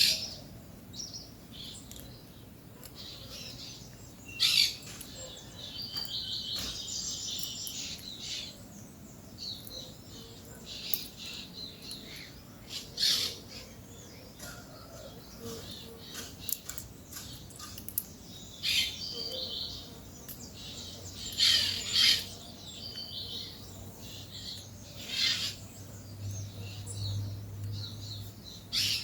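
Peach-fronted parakeets calling: short, harsh screeches and chatter, with a few louder calls every few seconds.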